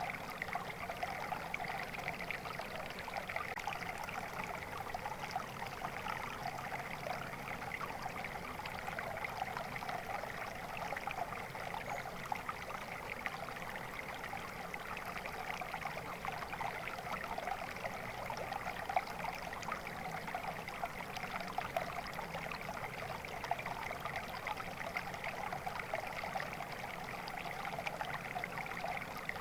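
Flowing water, a steady, unbroken rush of running water with no pauses or changes.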